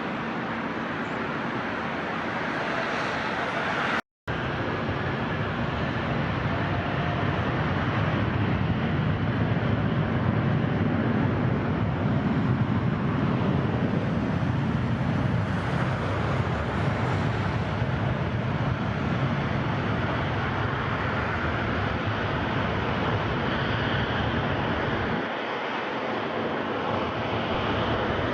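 Jet airliner engine roar passing the airfield, building to its loudest around the middle and slowly fading, with a brief dropout about four seconds in.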